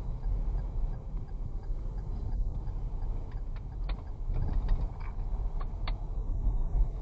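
Wind buffeting and the low rumble of a vehicle under way on a night drive, with a handful of short clicks about halfway through.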